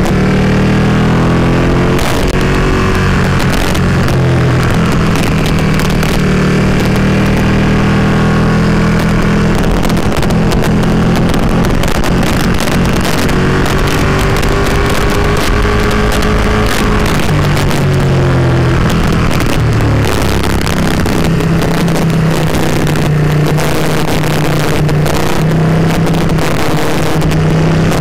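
Ducati Panigale 959's V-twin engine heard from on board while riding, its pitch rising and falling with the throttle through a series of bends. Wind noise buffets the microphone throughout.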